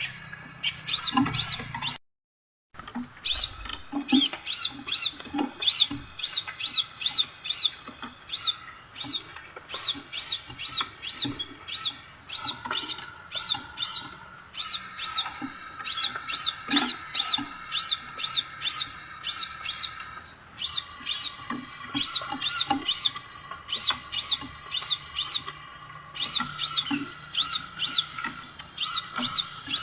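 Scarlet minivet (sepah raja) calling: a fast series of short, high, sweeping chirps, about three a second, over a steadier lower chatter, with a brief break in the sound about two seconds in.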